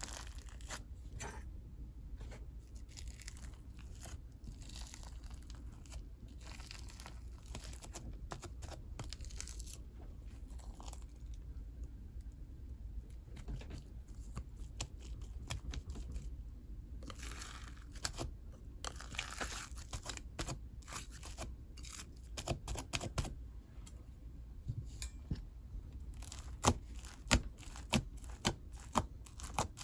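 Fluffy clay slime being squished, stretched and pulled apart by hand, giving soft crackly tearing sounds, with a run of sharper pops about every half second near the end.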